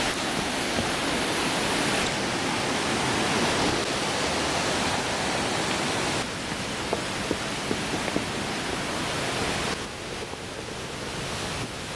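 Rushing water of a stream and small waterfalls, a steady hiss that drops in level about halfway through and again near the end, with a few faint clicks.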